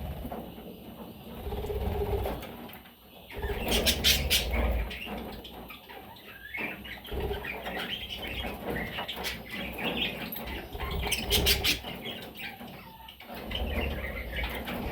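Pet budgerigars chirping, with bursts of wing flapping. There are clusters of sharp clicks about four seconds in and again about eleven seconds in.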